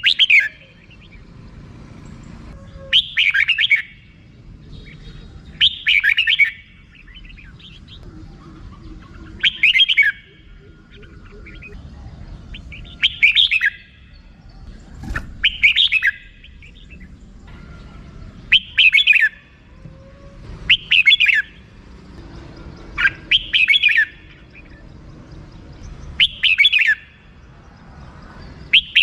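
Red-whiskered bulbul giving its rapid 'rik-rik-rik' chattering call over and over: about ten short, harsh calls, each under a second, repeated every two to three seconds.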